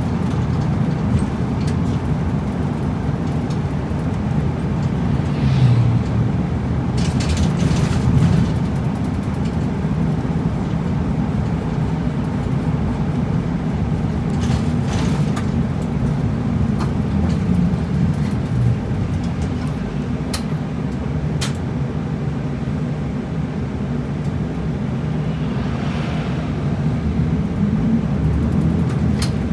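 Route bus running along the road, heard from inside: a steady low engine and road rumble, with a few brief rushes of higher noise, about a quarter, half and most of the way through.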